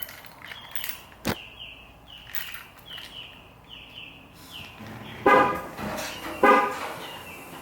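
A car's electronic warning chime repeats about every half second as short falling beeps. A sharp click comes about a second in, and two loud short horn-like tones sound about a second apart past the middle, just before the Hellcat Redeye is started cold.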